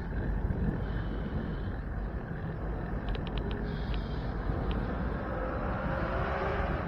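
Wind rushing over the microphone and road noise on a moving bicycle. There is a quick cluster of faint ticks about three seconds in and a faint wavering tone near the end.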